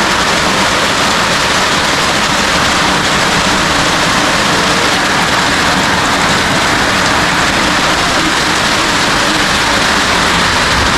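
Heavy rain falling steadily on a roof, a loud, even rush of noise with no letup.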